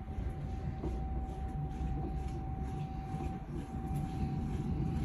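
Samsung Grande drum laundry machine running: a steady low rumble with a constant thin whine above it.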